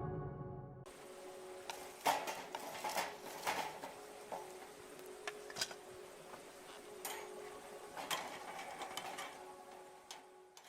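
Wood campfire crackling, with irregular sharp pops over a soft hiss; it cuts off abruptly at the end.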